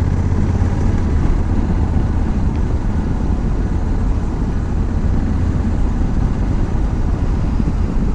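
Honda Africa Twin motorcycle being ridden at a steady pace: the engine and wind on the microphone make one even, low rumble.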